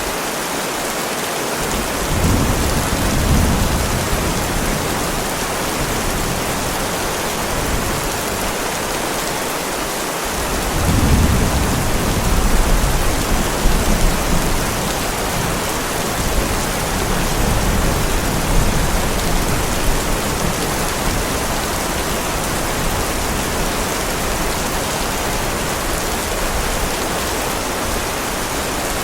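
Heavy rain falling steadily, with thunder rumbling twice: a first rumble about two seconds in and a longer, louder one from about ten seconds in that rolls on for several seconds.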